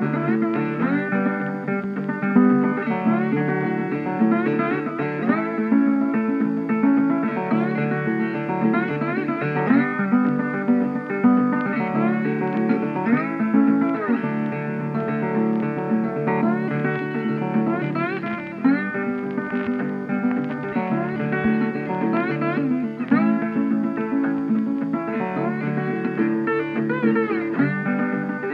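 Background music led by a plucked guitar, a country-blues style tune with sliding notes.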